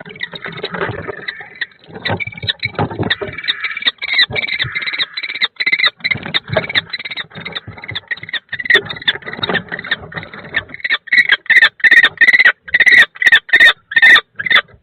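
Kestrel and barn owls fighting inside a nest box: harsh, shrill calls and screeches over scuffling and scraping. Near the end comes a rapid run of loud, sharp calls, about three or four a second.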